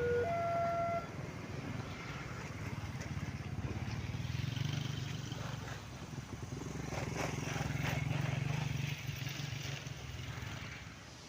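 An alternating two-note warning tone stops about a second in, followed by a passing train: a steady low rumble with wheel clatter, loudest in the middle.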